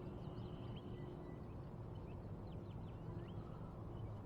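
Wild birds chirping and calling in many short, quick notes that sweep up and down, over a steady low background rush.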